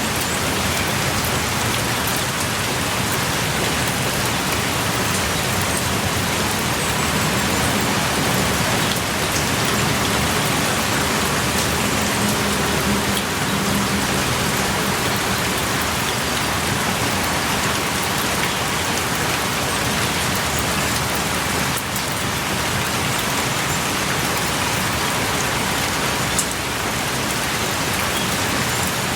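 Heavy rain pouring steadily, with scattered individual drops ticking.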